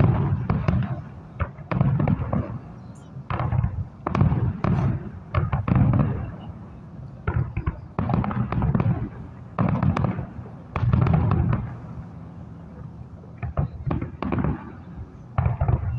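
Aerial firework shells bursting in quick, irregular volleys: sharp bangs with crackle, each followed by a deep echoing boom, coming in clusters every second or two.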